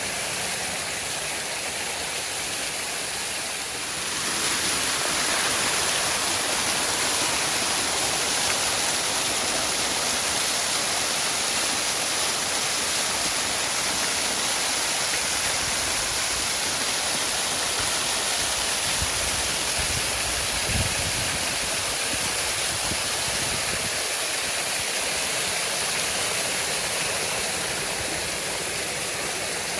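Waterfall: a steady rush of falling water that gets a little louder about four seconds in, with a brief low thump about two-thirds of the way through.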